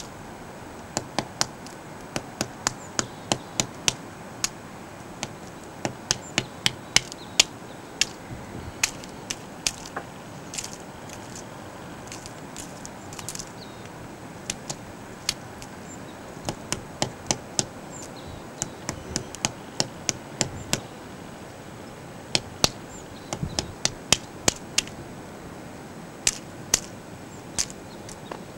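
Woodpecker pecking: single sharp taps in irregular runs of about two or three a second, with short pauses between runs, not a fast drumming roll.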